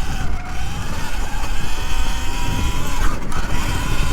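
Segway X160 electric dirt bike riding on trail: a thin, nearly steady electric motor whine over heavy low rumble from wind on the bike-mounted microphone and the tyres on the ground.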